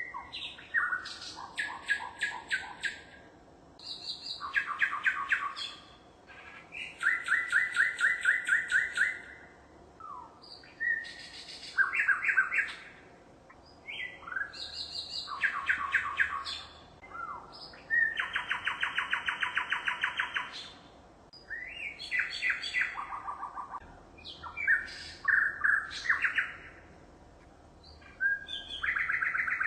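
A songbird singing phrase after phrase of rapid trills and chirps. Each phrase lasts two to three seconds, followed by a short pause, and each one differs from the last.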